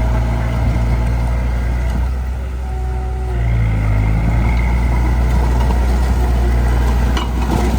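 Heavy earthmoving machine's diesel engine running steadily. Its note dips about two and a half seconds in and then comes back slightly higher. A single sharp click sounds about seven seconds in.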